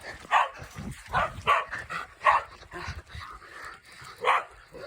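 Dog barking several times in a quick run, then once more after a pause of about two seconds.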